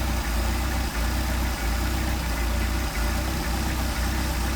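Mercedes-Benz 190SL's four-cylinder engine on twin Solex carburetors idling steadily at about 800 rpm, with the carburetors freshly synchronized.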